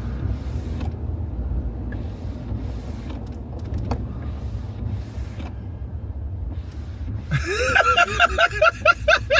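Steady low rumble of road noise inside a moving car. About seven seconds in, a person breaks into rapid, high-pitched laughter.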